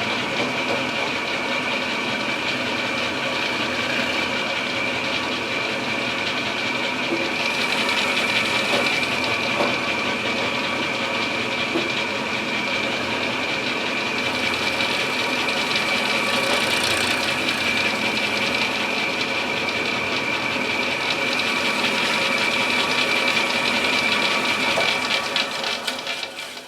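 Milling machine running with its cutter taking a cleanup pass in the walnut gunstock's action inletting: a steady high whine over the cutting noise, dying away near the end.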